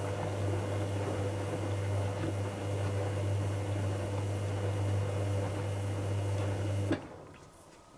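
Dyson Contrarotator CR01 washing machine running a burst of water through its valve or pump: a steady low mains hum with rushing water over it, which cuts off with a click about seven seconds in.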